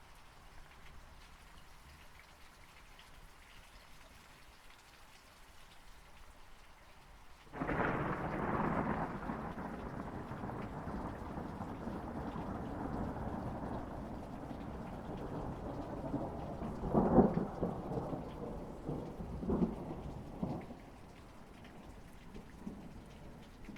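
Steady rain, then a thunderclap that breaks in suddenly about a third of the way in and rumbles on for over ten seconds, with two sharper cracks in the middle of the rumble, before dying back to the rain.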